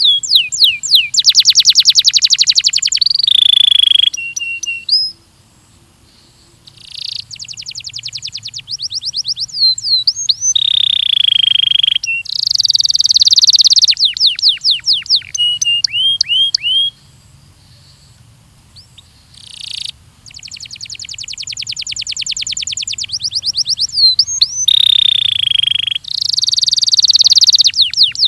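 Belgian canary singing in phrases of fast trills and repeated downward-sweeping whistles, with two short pauses.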